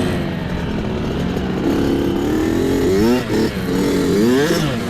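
Small dirt bike engines running under racing throttle, revving up and down sharply in quick bursts from about three seconds in.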